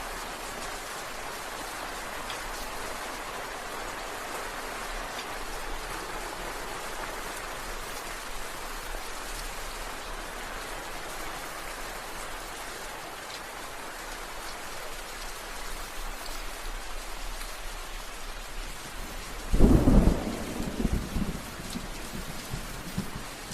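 Steady rain falling, with a sudden loud thunderclap near the end that rumbles on and fades over a few seconds.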